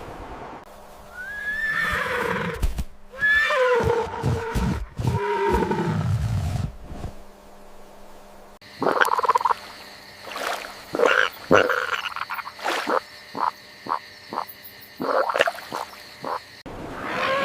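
Two animal sound clips in turn. First comes a pitched call that glides down in pitch, repeated several times. Then, after a short lull, a run of short, evenly spaced pulses runs until near the end.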